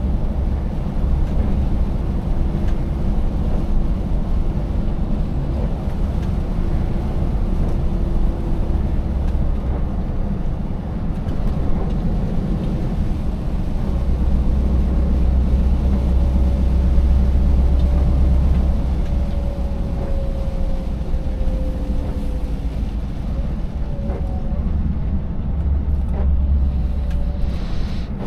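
Scania 590S V8 truck under way: a steady, heavy low rumble of engine and road noise, with the engine note drifting slowly lower at times.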